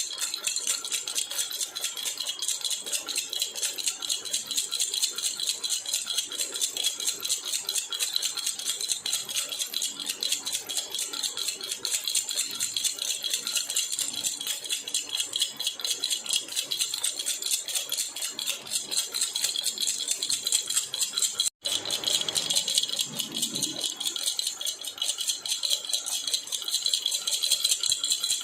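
Jhunjhuna baby rattle shaken steadily and fast, giving a bright, continuous rattling. It breaks off for an instant about two-thirds of the way through, then carries on.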